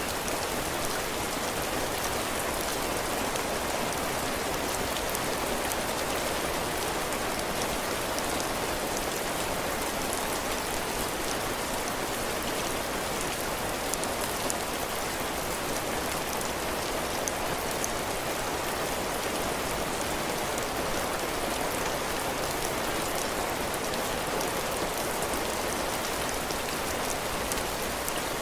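Heavy rain falling steadily on a cabin porch, drops pattering on the roof and floor in an even, dense hiss with fine individual drop ticks.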